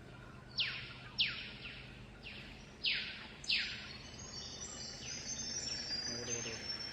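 A forest animal gives a series of short, high, noisy calls, each sliding down in pitch, about one every half second to two thirds of a second. Fainter high bird chirps join in over the second half.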